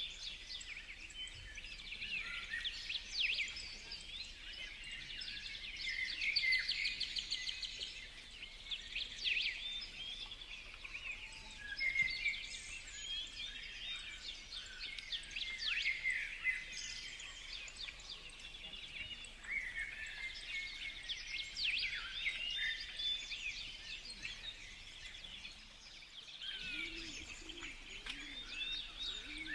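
Several birds chirping and calling at once, with many short high chirps and quick trills overlapping throughout, and a few low notes near the end.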